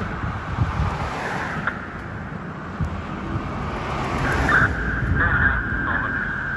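2010 HME/Ferrara fire engine driving by on a response, its engine and road noise rumbling low. About two-thirds of the way in, a steady high tone starts and holds to the end.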